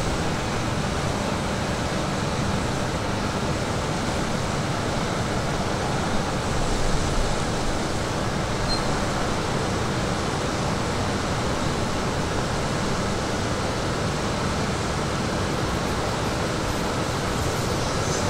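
E5 series Shinkansen train running slowly past at low speed, a steady even noise that holds without a break.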